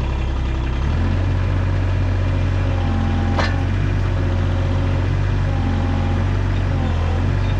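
Mini excavator engine running steadily just after starting, its low note shifting about a second in. A single sharp clack comes about three and a half seconds in.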